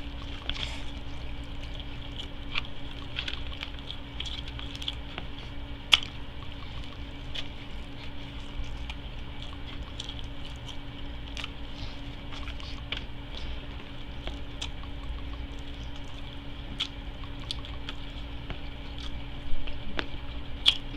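Close-miked wet chewing and mouth sounds from eating a fish sandwich, with scattered short smacks and clicks over a steady low hum.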